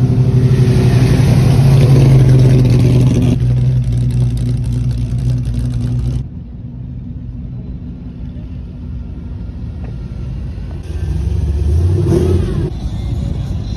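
A car engine running loud and steady for the first few seconds, then dropping away abruptly, with a short rev that rises in pitch near the end.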